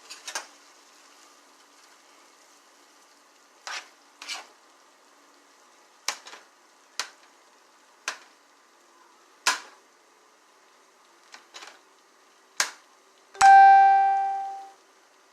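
Cooking utensil knocking and clinking against a pot on the stove, about a dozen sharp taps spread out, over a faint sizzle. Near the end one hard metallic strike rings out clearly and fades over about a second and a half.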